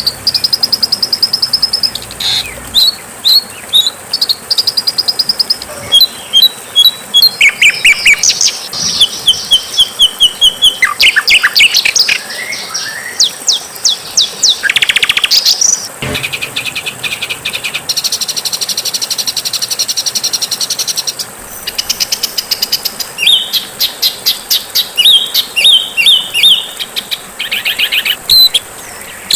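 Songbirds singing a fast, varied run of phrases: rapid repeated-note trills, chirp runs and steep downward-sweeping whistles, changing every few seconds, with a steady buzzy trill about two-thirds of the way through. This is harsh, aggressive 'masteran' song material used to teach song to cage birds.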